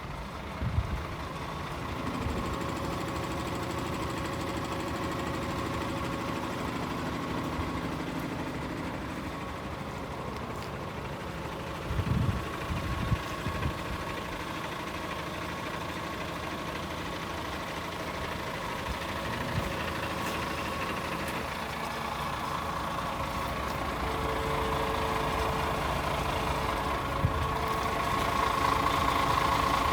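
Paccar 450 bhp Euro 6 diesel engine of a DAF CF450 tractor unit running steadily at idle, with a few low clunks, a cluster of them about twelve seconds in. A steady whine grows louder near the end.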